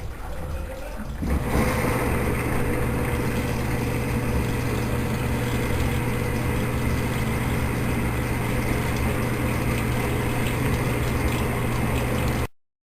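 Consul Maré Super 10 kg washing machine running with a steady motor hum. The hum starts abruptly about a second in and cuts off suddenly near the end.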